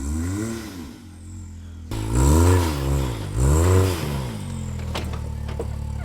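Side-by-side engine revved up and down over and over, each rev rising and falling in pitch about once a second, with a few sharp knocks near the end.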